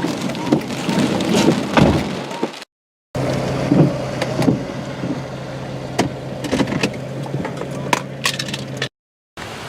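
Inside a moving car: steady engine and road hum with scattered knocks and rattles, broken twice by a brief dead silence where the clip is cut.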